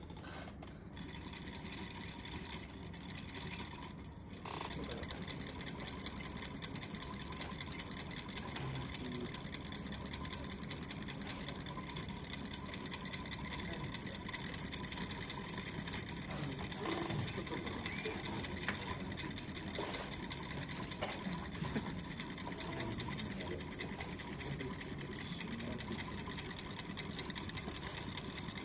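Small empty-can Stirling engine running, its moving parts ticking in a fast, even rhythm, with a brief dip about four seconds in.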